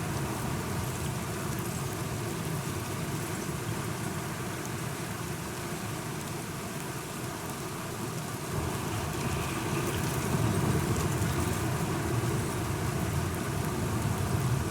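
Steady rain falling, over a constant low rumble that swells louder a little past halfway.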